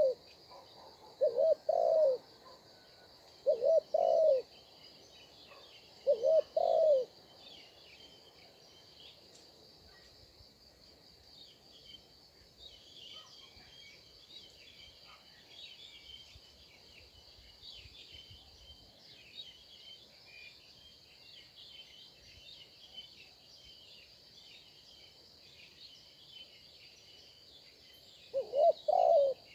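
A dove cooing in short repeated phrases, several in the first few seconds and once more near the end, over a steady high insect drone, with small birds chirping faintly through the second half.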